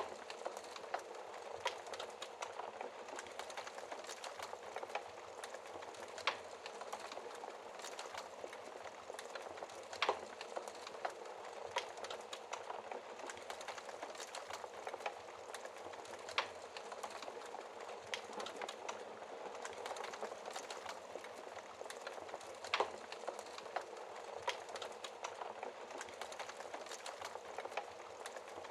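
Wood burning in a fireplace, crackling: a steady soft hiss of flames with constant small crackles and a louder sharp pop every several seconds.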